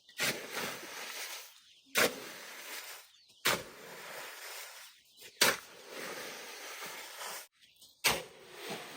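A shovel or hoe working wet cement mix by hand: a sharp knock every couple of seconds, each followed by a gritty scrape that fades out.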